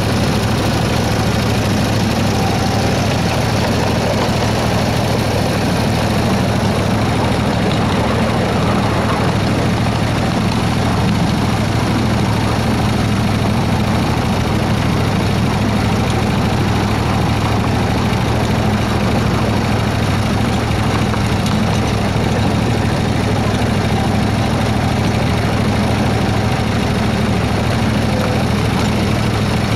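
Engine of a 7¼-inch gauge Baldwin S-12 miniature locomotive, built by Rail Systems Co, running at a steady pace as the train moves along slowly, heard from the driving position.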